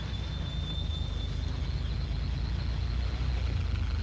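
Steady low rumble of street traffic, with a faint thin high tone for about the first second and a half.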